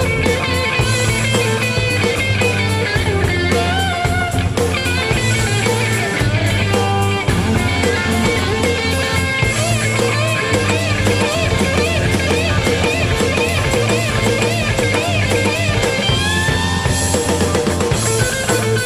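Rock music: an electric guitar playing a lead line with bends and vibrato over bass and drums.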